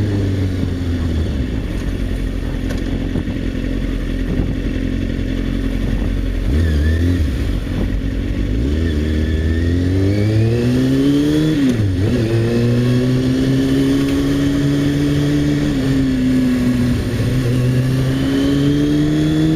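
Motorcycle engine heard from the rider's seat, running steadily at first, then revving up as the bike accelerates about six seconds in, with a quick drop in revs at a gear change and a steady cruise after that.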